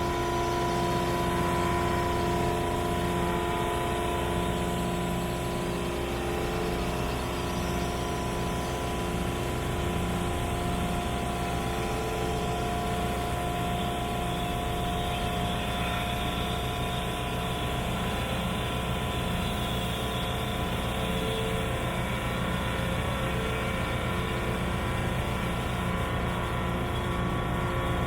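Rainman watermaker's high-pressure pump running steadily, mixed with the boat's engine, as the pressure dial is slowly backed off during shutdown.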